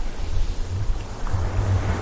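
Ocean waves washing in as a steady surf noise, with a deep rumble that swells through the middle.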